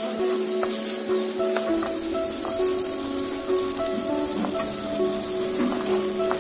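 Egg roast sizzling in an oiled pan, a steady frying hiss with a few sharp clicks as it is stirred, under background instrumental music playing a melody of held notes.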